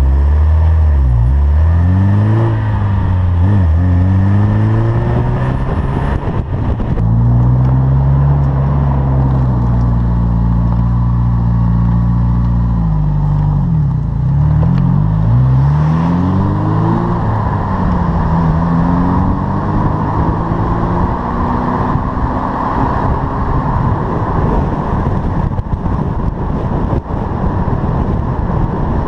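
Ferrari Mondial 3.2's V8 engine, its revs rising and falling several times. In the last third it gives way to a steadier rushing sound.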